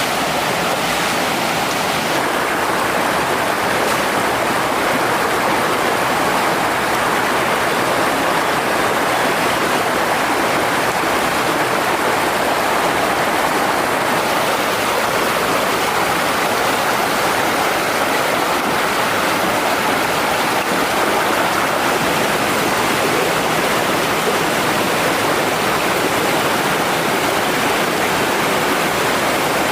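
Mountain stream water rushing over rocks, a steady, loud, unbroken noise.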